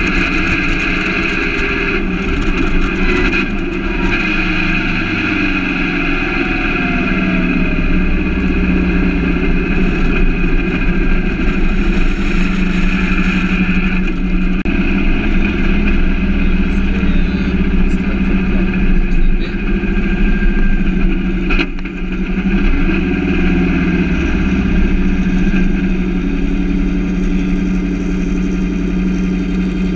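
Turbocharged 2332cc air-cooled VW flat-four engine in an open roadster running steadily at low speed. Its low note shifts a few times with the throttle, and there is one sharp click about two-thirds of the way in.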